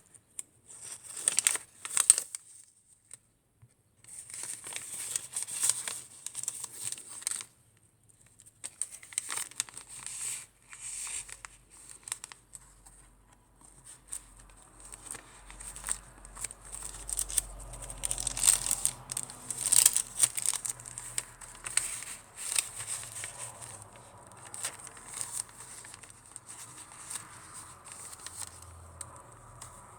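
Paper rustling and crinkling in irregular bursts as the pages, pockets and tags of a handmade paper junk journal are turned and handled, with short pauses in between.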